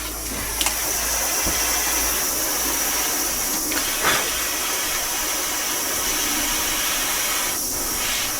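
Bernzomatic gas torch flame burning with a steady hiss while soldering a brass steam block, with a couple of light clicks.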